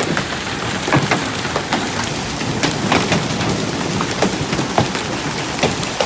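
Hailstorm: a steady hiss of falling hail and rain, with frequent irregular sharp knocks of individual hailstones striking hard surfaces.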